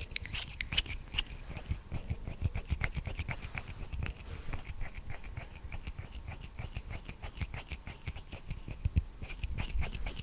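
ASMR hand sounds made fast and close to a sensitive microphone: hands rubbing and patting in a rapid, irregular run of soft taps and crackles.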